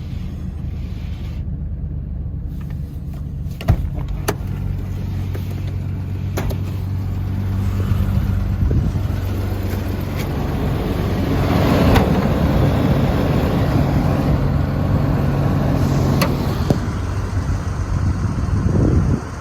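Toyota Land Cruiser FJ62's inline-six engine running and being revved: it swells to a peak about twelve seconds in, then settles back. A few sharp clicks are heard along the way.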